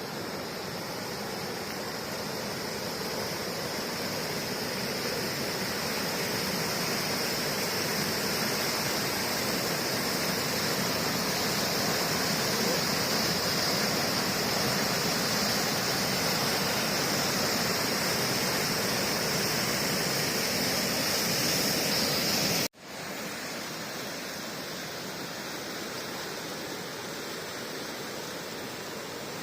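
Steady rushing noise of flowing river water. About 23 s in, the sound cuts out for an instant and comes back slightly quieter.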